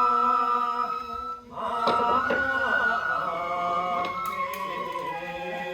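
Nembutsu chanting for a kenbai dance: voices hold long sustained notes, break off briefly just over a second in, then resume, with two sharp percussion strokes about two seconds in.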